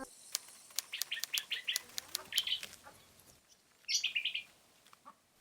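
A small bird chirping in quick bursts of short, high calls: one run between about one and two and a half seconds in, and another around four seconds in. Scattered sharp clicks come among the first calls.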